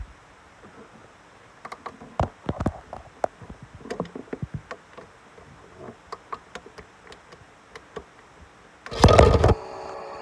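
Toy washing machine with stones inside it, which is not spinning: irregular light clicks and knocks, then a loud rattle about nine seconds in, followed by a steady electric hum as it starts running.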